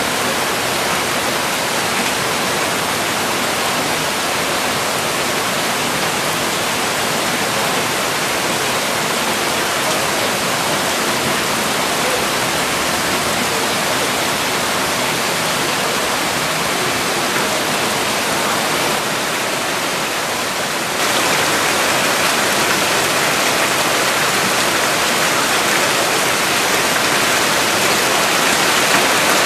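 Heavy rain and rushing floodwater, a loud, steady hiss of pouring water. It drops slightly for a couple of seconds about two-thirds through, then comes back a little louder.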